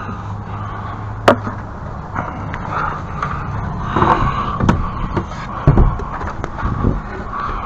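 Irregular knocks and clunks of hand work, a sharp click about a second in and a few heavier thumps near the end, over a steady low hum.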